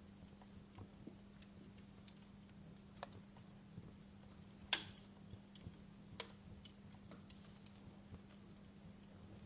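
Wood fire crackling in a fireplace: scattered, irregular snaps and ticks, with one louder pop about halfway through. A faint steady low hum lies underneath.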